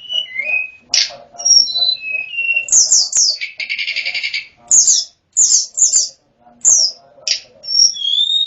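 A songbird known to Indonesian bird keepers as sulingan gunung (tledekan gunung) singing a varied whistled song: clear notes stepping down in pitch, quick high down-slurred notes, and a harsh rattling call a little after three seconds in. Near the end comes a long whistle that falls slowly.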